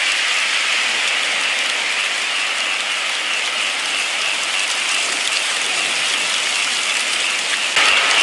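Steady rain falling, an even hiss with no single drops standing out; it grows slightly louder near the end.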